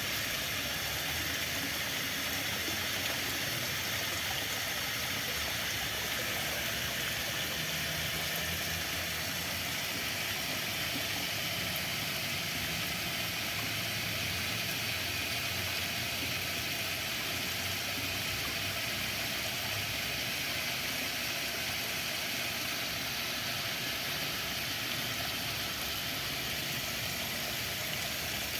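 Flowing water rushing steadily, with a faint low hum underneath in the middle of the stretch.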